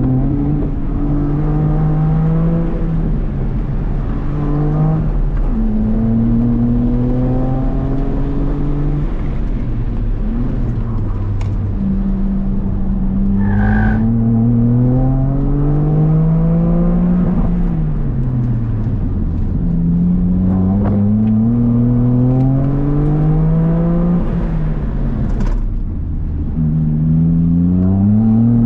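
Toyota GR Corolla's turbocharged three-cylinder engine, heard from inside the cabin, revving hard under full throttle. Its pitch climbs steadily and drops back several times as the car works through an autocross course.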